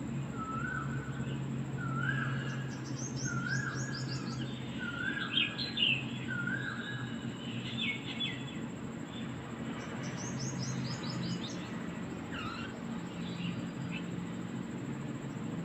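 Several small birds calling and chirping: one repeats the same short rising call five times, about a second apart, over bursts of quick high twittering from others. A steady low hum runs beneath.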